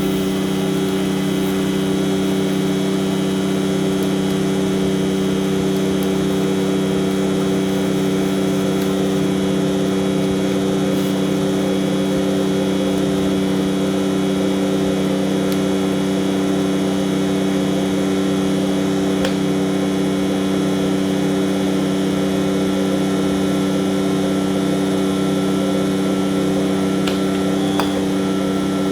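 Heavy truck's diesel engine running at a steady, unchanging speed, a constant low hum of several held tones.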